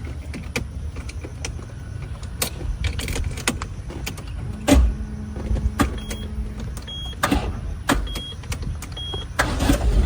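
An old Peugeot's engine running and being revved, with a low rumble that surges loudly about halfway through and again toward the end. There are sharp clicks throughout and four short high beeps in the second half.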